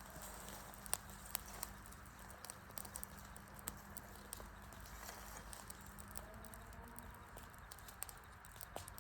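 Wood campfire crackling: irregular sharp pops and snaps over a faint low hiss, the strongest about a second in and again near the middle and end.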